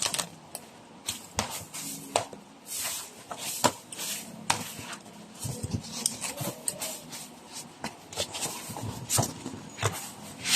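Scattered clicks, knocks and rustling from handling the audio equipment, with no steady hum to be heard.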